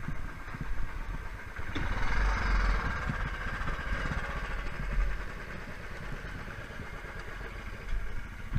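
Motorcycle engine running, with a steady low rumble and a brief rise in noise about two seconds in.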